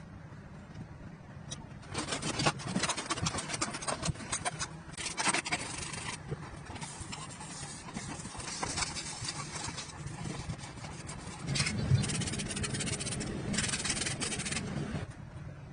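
Hand work on a small metal toy car: irregular scraping and rubbing in several bouts with short pauses between.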